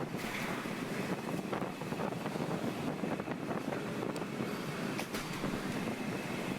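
Strong wind rushing over a microphone, a dense, steady noise, with a faint steady high tone running under it.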